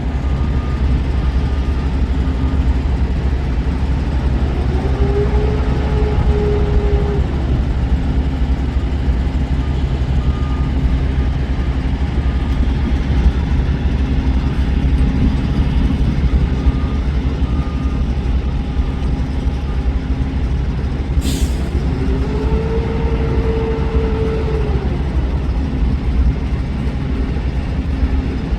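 Semi truck running steadily down the road, a constant heavy engine and road rumble. Twice a tone rises, holds and falls away, about five seconds in and again past twenty seconds, with a brief hiss just before the second one.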